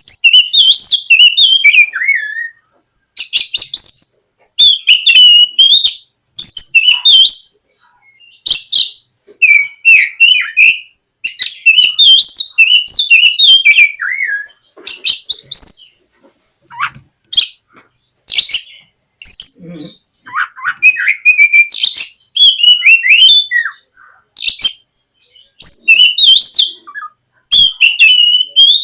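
Oriental magpie-robin (kacer) singing loudly in quick, varied phrases of whistles, warbles and chirps, bursts of a second or two broken by short pauses. It is a lure song played to draw other magpie-robins into singing.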